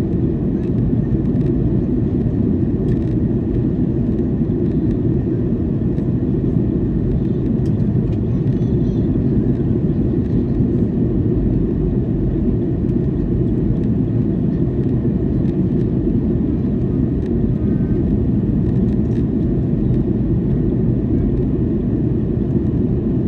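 Steady low rumble inside the cabin of a Boeing 737-800, its CFM56-7B engines and the airflow around the fuselage heard from a window seat, even and unchanging in level.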